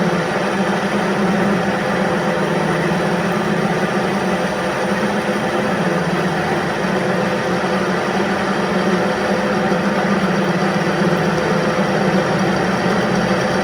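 A machine running steadily with a low hum and no change in pitch or level.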